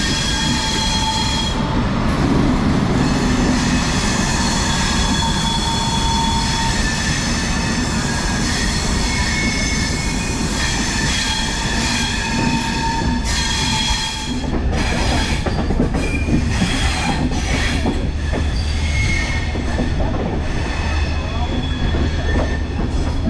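Passenger train running at speed: a steady rumble of wheels on rail with high, thin wheel squeal coming and going. About fourteen seconds in it changes to a heavier, deeper rumble with rapid clicking from the track.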